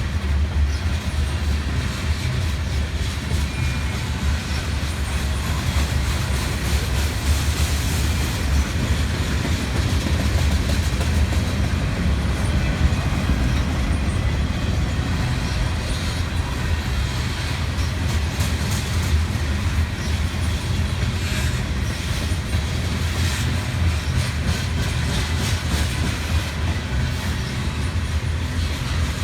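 Freight train rolling past, a steady low rumble with the wheels clicking over the rail joints.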